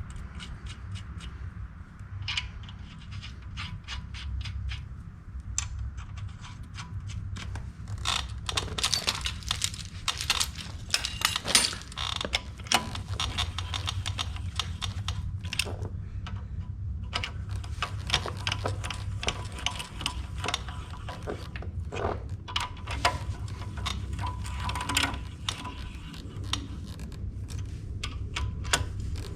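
Rapid metallic clicking and clinking of a hand wrench working steel nuts and lock washers down onto studs. The clicks come sparsely at first, then thick and fast from about a quarter of the way in.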